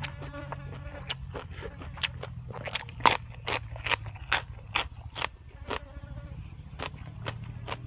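Close-up chewing and crunching of a meal of boiled pig's head, som tam and crisp raw vegetables: irregular wet mouth clicks and crunches over a steady low hum. A faint buzz is heard in the first second and again around the sixth.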